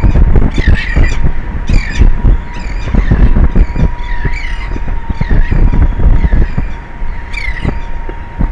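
A seabird calling over and over, roughly once a second, with loud wind buffeting the microphone underneath. A faint steady tone runs behind it.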